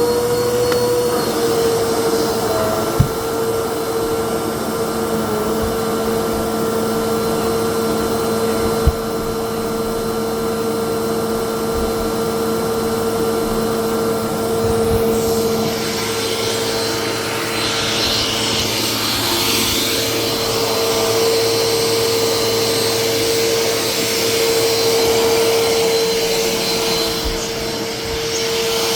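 Vacuum cleaner running steadily, its motor holding a constant whine over the rush of air. There are two sharp knocks, about three and nine seconds in. About halfway through, the hissing of the air grows louder and brighter.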